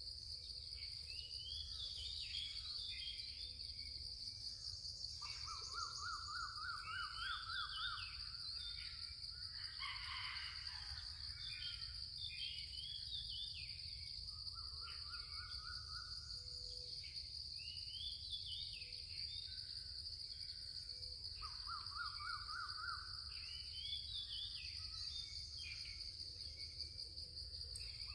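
Daytime forest ambience. A steady, high-pitched insect drone runs underneath many short bird chirps and calls. A rapid trilling bird call comes back roughly every six seconds.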